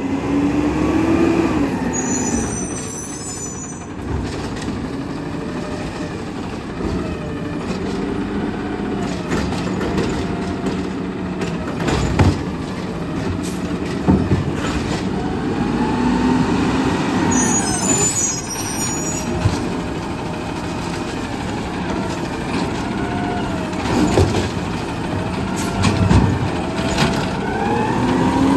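Garbage truck working a collection route: the engine revs up and falls back again and again as the hydraulics run, with air brake hisses twice and several sharp bangs as cans are slammed against the hopper.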